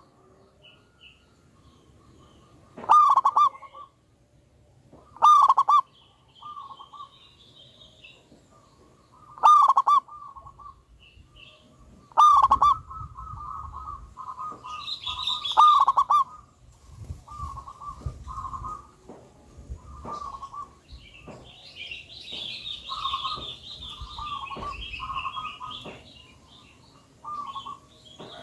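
Zebra dove cooing in repeated short phrases, loud at first and then softer and quicker. Higher twittering from small birds joins in now and then.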